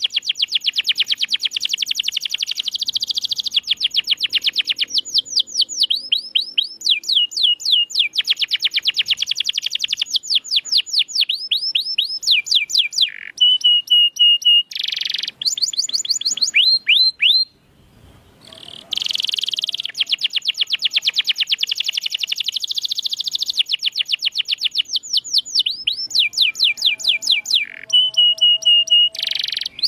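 Domestic canary singing a long, fast song of rapidly repeated trills and buzzy rolls, with a brief pause a little past halfway before it resumes.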